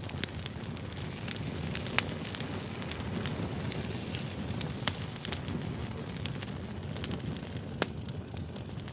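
Firewood burning and crackling: a steady low rumble of the fire with scattered sharp pops, the loudest about two seconds in, around five seconds, and near the end.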